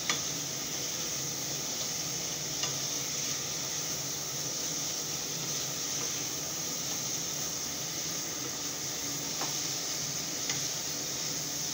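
Chickpea masala sizzling in a pan on the stove as it is stirred with a spoon. A steady hiss runs throughout, with a few light clicks of the spoon against the pan.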